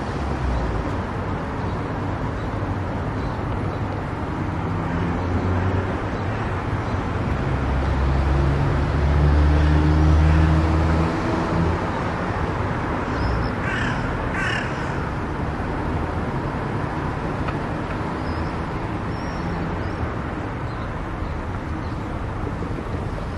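Steady road and engine noise of a car driving, swelling louder for a few seconds near the middle. Just after halfway come two short, quick calls.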